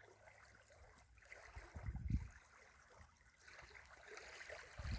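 Wind buffeting the microphone in two deep gusts, about two seconds in and again near the end, over a faint wash of lake water lapping at the shore.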